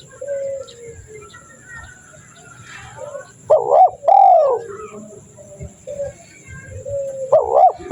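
Spotted dove (tekukur) cooing: soft coo notes at first, then a loud, rolling coo phrase about halfway through and another near the end.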